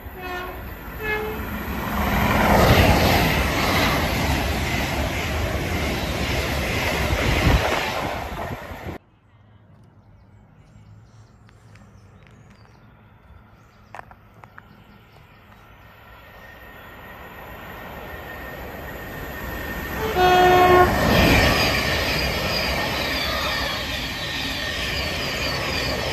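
Two trains running through a station at speed, each announced by short horn blasts. The first horn sounds at the start and its train rushes past for about eight seconds before the sound cuts off suddenly. After a quieter lull a second horn sounds about twenty seconds in, and an electric multiple unit approaches and runs past with a loud rush of wheel and rail noise.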